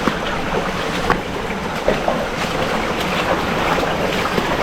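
Steady rush of stream water with wind buffeting the microphone, broken by a few light knocks.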